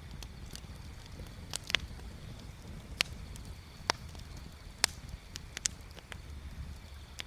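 Wood bonfire crackling, with sharp irregular pops every second or so over a low steady rumble.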